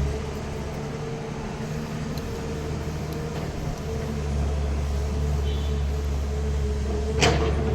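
Steady low engine hum of a machine running in the background, with one sharp knock near the end.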